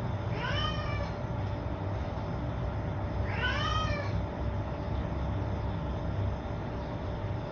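Domestic cat meowing loudly: two drawn-out meows about three seconds apart, each rising then falling in pitch.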